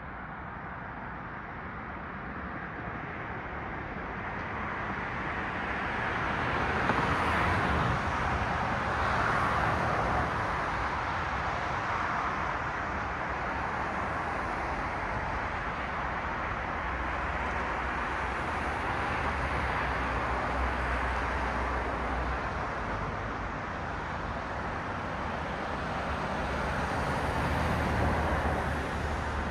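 Cars passing on a city street: a steady rush of traffic noise that swells as vehicles go by, loudest about seven seconds in and again near the end.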